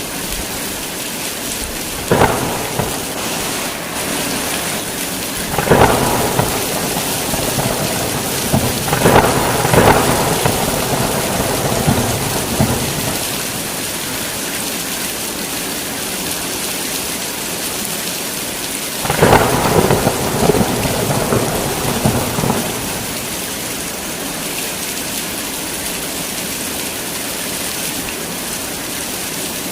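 Heavy rain falling steadily, with thunder breaking in four times: a short sharp crack about two seconds in, then longer rolling rumbles around six seconds, from about nine to twelve seconds, and from about nineteen to twenty-two seconds.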